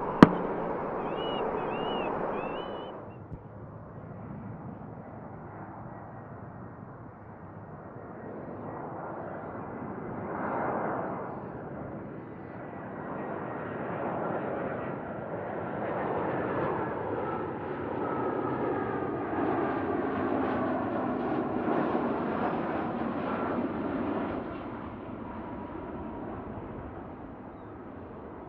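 Jet airliner's engines passing by: the noise builds over several seconds, with a faint whine sliding slowly down in pitch, is loudest about three quarters of the way through, then drops away. It follows a different noise that cuts off suddenly about three seconds in.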